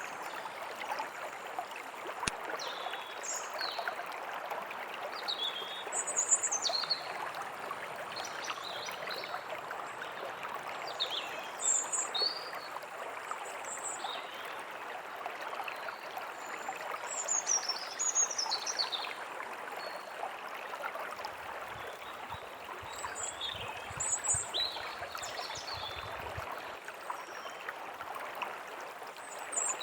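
A stream flows with a steady rush while small songbirds call now and then above it in short, high, mostly falling chirps that come in little clusters.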